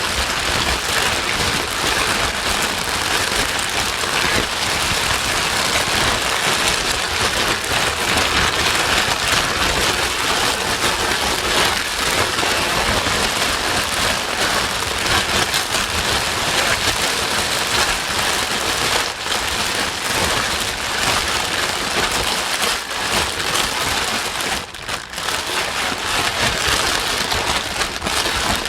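Baby-soothing white noise: a steady, dense hiss like heavy rain, with a brief dip about 25 seconds in.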